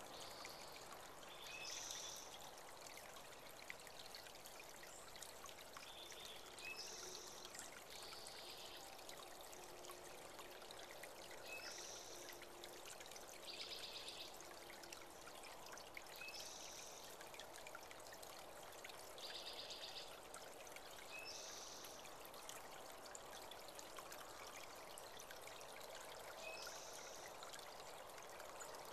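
Water from a small spring-fed creek trickling and pouring steadily, with a bird calling in short high phrases every few seconds.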